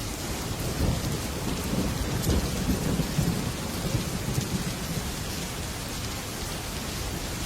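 Heavy rain pattering on a metal roof, with a low rumble of thunder that swells in the first half and then eases.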